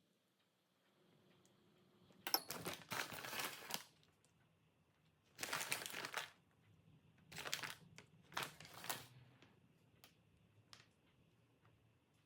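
Crinkling and rustling of something being handled, in four bursts of about a second each, with a few light clicks after.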